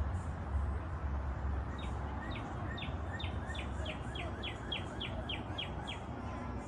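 A songbird singing a run of short falling chirps that start about two seconds in and quicken to about four a second, over a steady low rumble of outdoor background noise.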